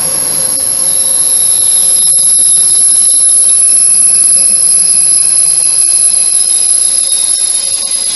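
Train wheels squealing against the rails, a loud steady high-pitched screech made of several tones, with a few sharp clicks.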